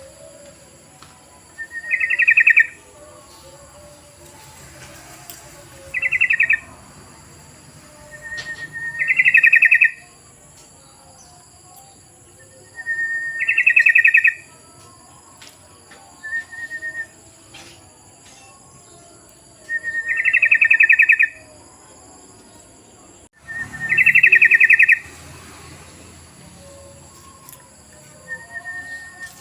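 Yellow-vented bulbul song: a short whistled note leading into a rich, bubbly burst of about a second, repeated roughly every three to four seconds, as used to lure other bulbuls to answer.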